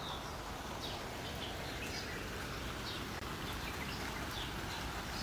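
Birds chirping, short high calls repeated every half second or so, over a steady even hiss of outdoor background noise.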